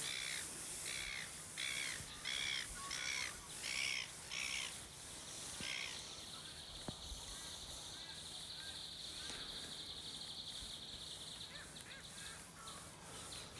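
A bird calling about eight times in a row, roughly one call every half second, with a harsh, cawing quality. A steady high-pitched buzz follows for about six seconds.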